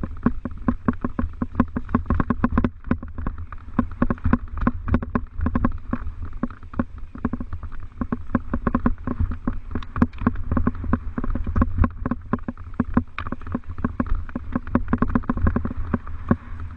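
Mountain bike rattling over a rough trail: a dense, irregular clatter of clicks and knocks over a steady low rumble of wind on the microphone.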